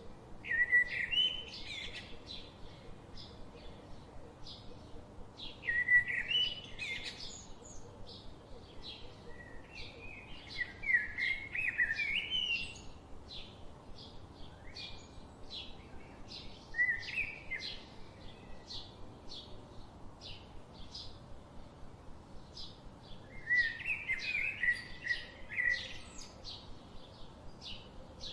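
Birds chirping in a steady stream of short high notes, with a louder twittering phrase breaking in every few seconds.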